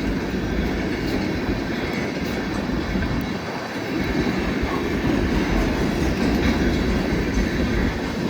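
Freight cars of a long CSX train rolling past, with a steady rumble and clatter of steel wheels on the rails.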